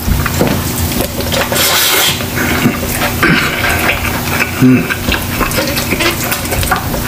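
Close-miked eating sounds: wet chewing and mouth noises with crackly clicks, and fingers picking through rice and food on a platter.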